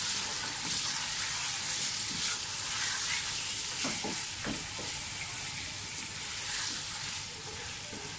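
Mutton and sliced tomatoes sizzling in hot oil in an aluminium pressure cooker, stirred with a wooden spoon that scrapes against the pot now and then, as the meat is browned (bhuna) with the tomatoes.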